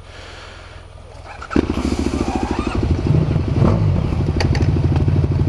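Motorcycle engine starts about a second and a half in and settles into a steady, fast-pulsing idle.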